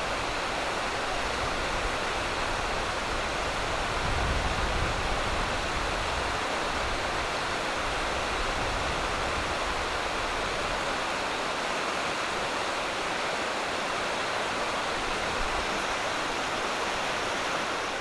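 Heavy-flowing waterfall of about 20 m plunging into a deep pool: a steady, dense rush of falling water, with a little more low rumble about four seconds in. It cuts off suddenly at the end.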